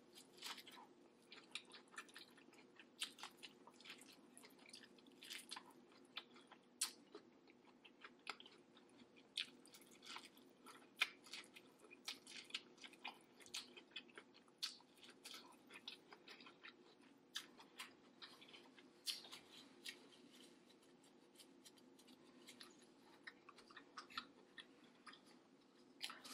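Close-miked chewing and mouth sounds while eating a seafood boil: irregular wet clicks and smacks, a few sharper than the rest, over a faint steady hum.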